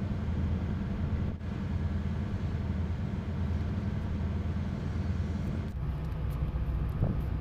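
A tugboat's diesel engine running steadily under way, a continuous low drone heard on board. The drone changes slightly about six seconds in.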